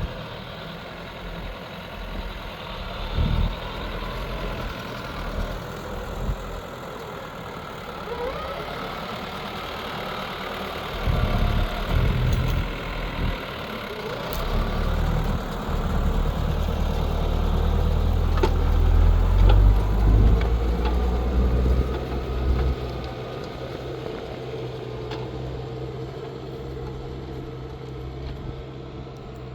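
New Holland TL100 tractor's diesel engine running under load while ploughing, its pitch rising and falling at times. Bouts of deep rumble come and go, loudest about two-thirds of the way through.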